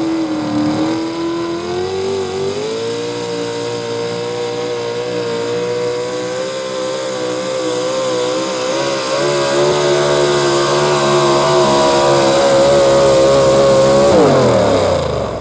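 Modified 4x4 pulling truck's engine at high revs under full load pulling the sled. The revs climb at the start and then hold high and steady for about fourteen seconds. Near the end the pitch falls away sharply as the driver comes off the throttle at the end of the run.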